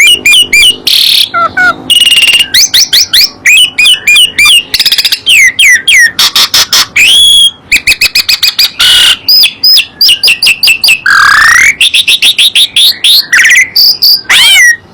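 Songbirds singing loudly: a dense, unbroken stream of quick chirps, rapid repeated notes and whistled slurs.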